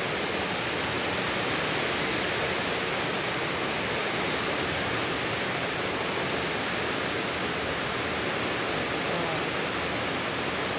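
Heavy rain falling outside, a steady hiss with no letup.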